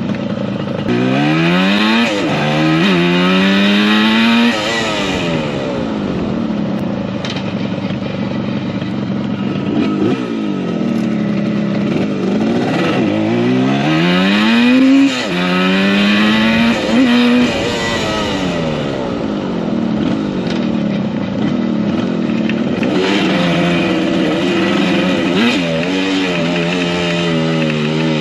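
1975 Yamaha RD200's two-stroke parallel-twin engine revving hard as the motorcycle accelerates up through the gears, its pitch climbing and dropping back at each shift, then falling away as it eases off; this happens twice, with a choppier stretch of throttle near the end.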